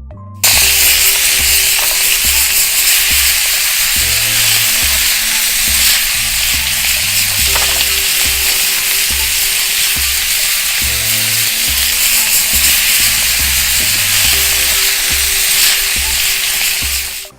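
Pig kidneys frying on a hot steel plate, a loud steady sizzle that starts suddenly and cuts off suddenly near the end, with background music playing underneath.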